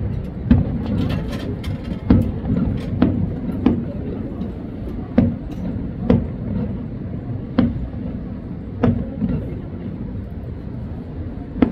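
Fireworks shells bursting: sharp single bangs at irregular spacing, roughly one a second, with a quick cluster in the first two seconds, over a steady low rumble.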